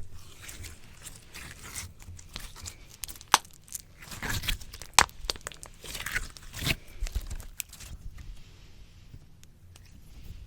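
Slime squished and pulled against a microphone: a run of sticky crackles and small pops, with two sharper pops about three and five seconds in.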